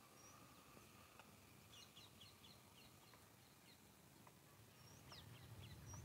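Quiet outdoor ambience with a bird chirping faintly. A quick run of short falling chirps, about four a second, comes a couple of seconds in, and a few more come near the end along with a faint low rumble.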